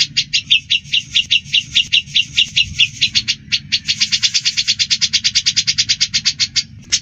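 Grey-cheeked bulbul (cucak jenggot) and Eurasian tree sparrow calling in a fight: a fast, harsh chatter of about eight notes a second, breaking off briefly about halfway through, over a faint low hum.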